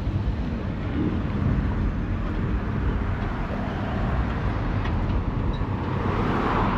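Car engines running with a steady low rumble, with a swell of noise building near the end.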